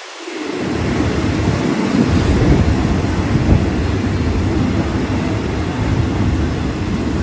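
A train running close by with a loud, deep rumble that builds up within the first second and then holds steady.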